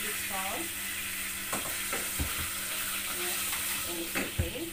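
Vermicelli noodles sizzling as they fry in hot oil in a steel pot, stirred with a wooden spoon, with a few short knocks against the pot, the sharpest near the end.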